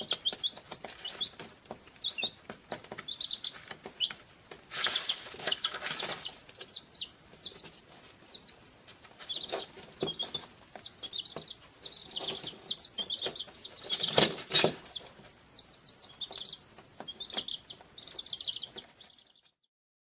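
Birds chirping in quick runs of short high notes, with two louder, noisier stretches about five and fourteen seconds in. The sound cuts off suddenly near the end.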